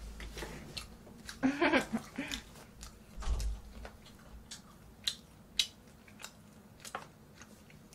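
A person chewing food close to the microphone, with a scattered series of short, sharp clicks and taps through the second half.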